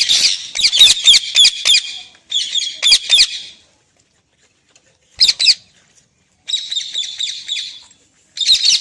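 Pet parrot giving harsh, rapid chattering squawks in bursts of one to two seconds, broken by short pauses, with one very brief burst in the middle.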